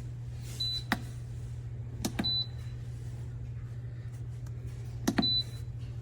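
Steady low electrical hum, with sharp clicks and three short high beeps, like buttons being pressed on an electronic control panel.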